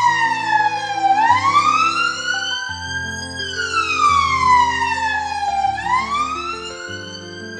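Emergency vehicle siren wailing, its pitch sliding slowly down and up in long sweeps of about two and a half seconds, over background music.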